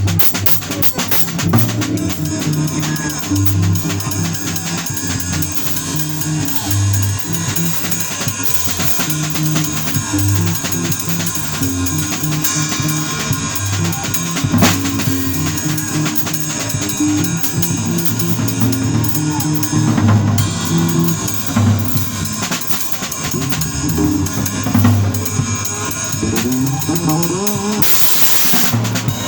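Bass and drum kit playing together. The bass plays a line of short, stepping low notes under busy snare, rim and cymbal work, with a swell of cymbal wash near the end.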